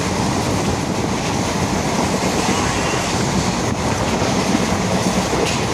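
Passenger train running on the rails: a steady rumble of the wheels and carriage.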